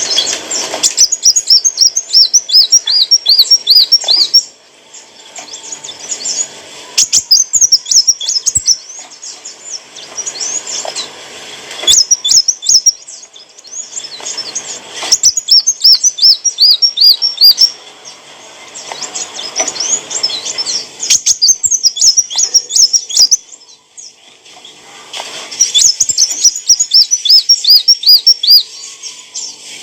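Sunbird singing: repeated phrases of rapid, high, twittering notes, each a few seconds long, with short pauses between.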